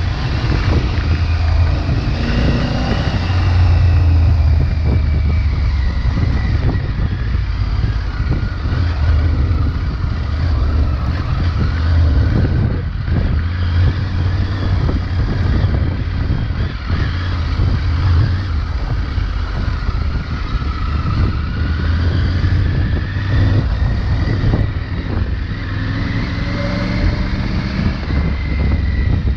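Triumph Tiger 900 Rally Pro's three-cylinder engine, T-plane 'triple' on its stock exhaust, running under way, its pitch rising and falling with the throttle over a steady low rumble and ride noise.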